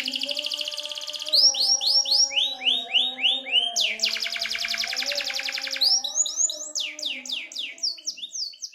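Domestic canary singing a fast, continuous song: long rapid trills alternating with runs of quick sweeping notes, over a quieter slowly shifting low tone. The song fades out at the very end.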